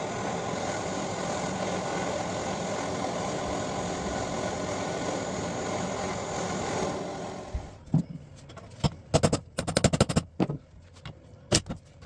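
A workshop power tool runs steadily and stops about seven and a half seconds in. Several short, loud bursts of tool noise follow, each under a second.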